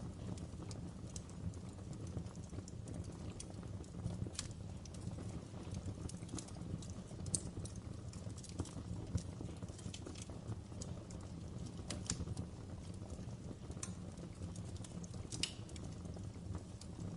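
Wood fire in a fireplace crackling, with irregular sharp pops and snaps, a few louder ones, over a low steady rumble.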